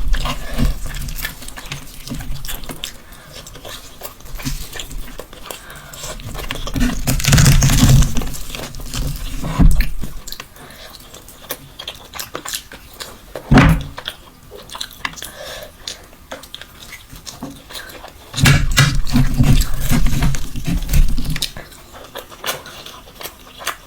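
A person chewing and eating mutton mandi close to the microphone, with wet chewing and smacking in irregular bouts. The loudest bouts come about a third of the way in and again near the end, with a sharp click in between.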